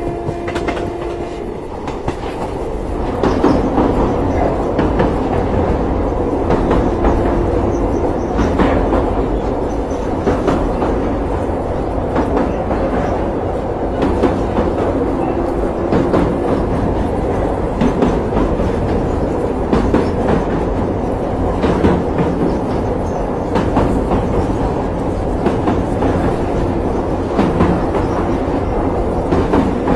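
Indian Railways train with Utkrisht coaches running along the track: a steady rumble of the coaches with repeated clickety-clack knocks of the wheels over rail joints, growing louder about three seconds in.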